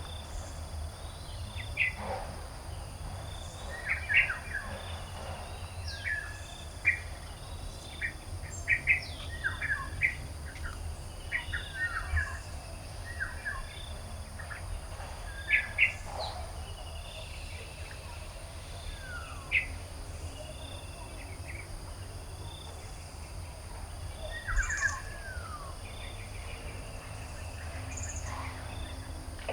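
Several garden birds chirping and calling, with short sharp notes and quick falling whistles scattered throughout and a soft note repeating about every two seconds. Behind them are a steady high hum and a low rumble.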